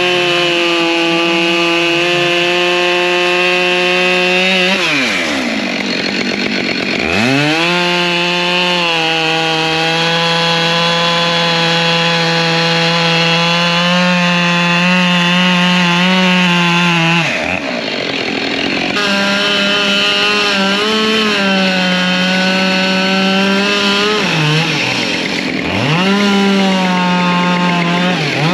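Two-stroke chainsaw running at high revs while cutting wood. Three times, a few seconds in, past halfway and near the end, the revs drop off sharply and climb back up.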